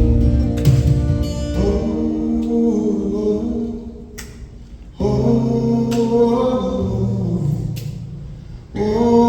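Live song: voices singing long held notes over acoustic guitar. The chord fades away, is struck again about five seconds in, and again near the end.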